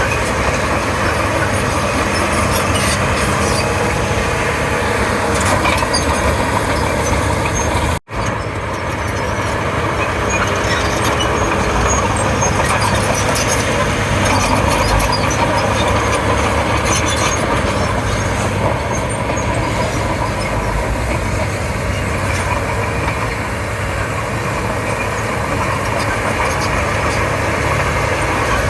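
Komatsu D31P bulldozer's diesel engine running steadily under work, with scattered clicks and clanks over it. The sound drops out for a moment about eight seconds in, at a cut.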